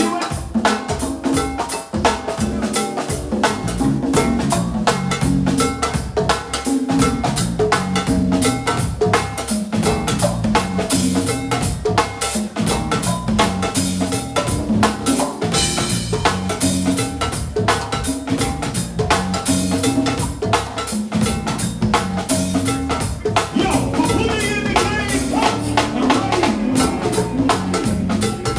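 Band music with a steady drum-kit groove: snare, bass drum and rimshots over bass and keys, with no vocals.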